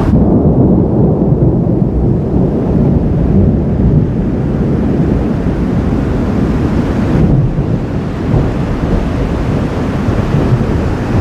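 Thunder from a lightning storm rolling in a long, low rumble.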